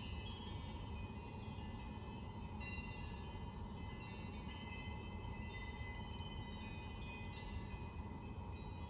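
Steady low rumble of a car driving, with soft chime-like tones ringing at changing pitches over it.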